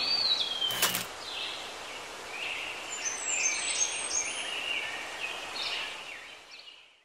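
Birds chirping in short repeated calls over a steady background hiss, with a falling whistle at the start and a sharp click about a second in. It all fades out near the end.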